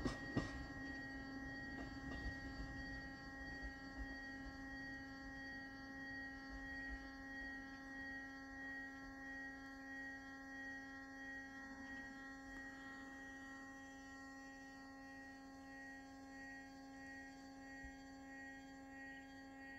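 Faint steady hum of several tones from a departing two-car diesel railcar, slowly fading as the train draws away, over a low rumble, with one brief knock just after the start.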